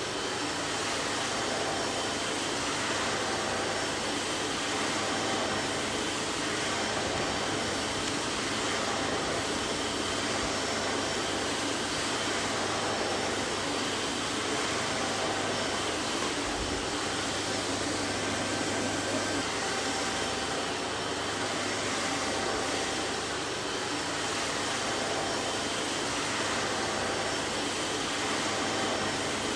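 Vacuum cleaner running steadily, an even motor and airflow noise with a low hum and faint whine and no change in speed.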